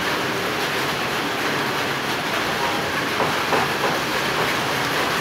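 Steady hiss of light rain falling, with a few brief louder ticks about three seconds in.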